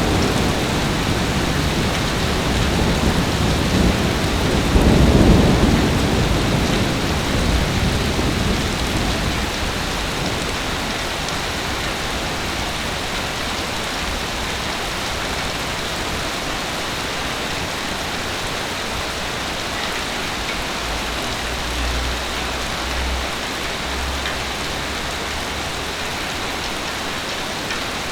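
Heavy rain falling steadily. A low rumble of thunder swells and fades within the first ten seconds, and a fainter rumble comes again near the end.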